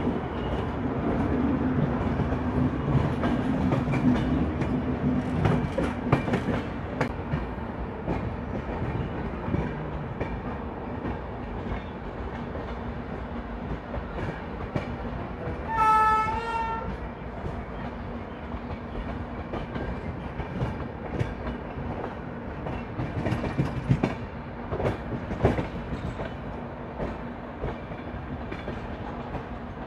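Indian Railways Goa Express sleeper coach running on the rails: a steady rumble with clicks of the wheels over the rail joints. About halfway through, a train horn sounds once for about a second.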